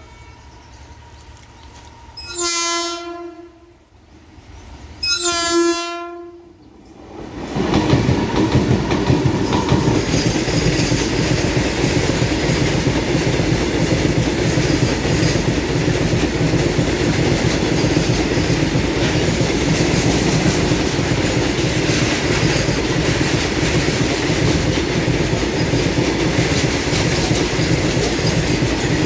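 Two blasts of a WAG-12B electric locomotive's horn, the second one longer. About seven seconds in, the locomotive and its train of BOXN freight wagons pass, with a loud steady rumble and the clickety-clack of wheels over rail joints.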